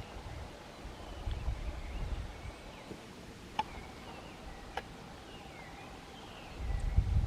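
Faint short chirping calls of small birds, several scattered downward chirps, over low wind and handling rumble. Two sharp clicks come near the middle, about a second apart.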